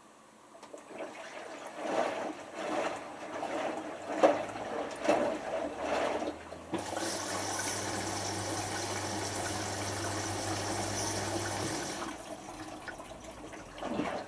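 Hotpoint HF8B593 washing machine on its first rinse: water sloshing in irregular surges as the drum turns, then a steady rush of water filling the machine, with a low hum, for about five seconds before the sloshing returns.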